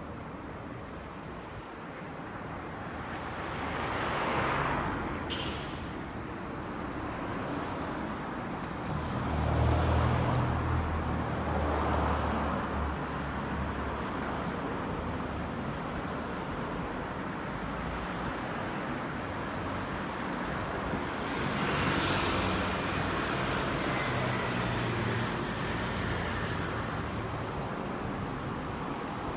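Street traffic: vehicles pass one after another over a steady road-noise background. A deep engine rumble from a heavier vehicle passing about a third of the way in is the loudest moment, and another vehicle goes by about two-thirds through.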